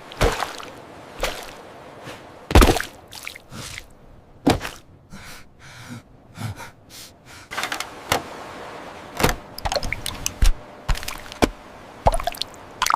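Added sound effects of a soaked figure struggling out of water: irregular thunks and knocks, with water pouring and dripping, and gasping breaths.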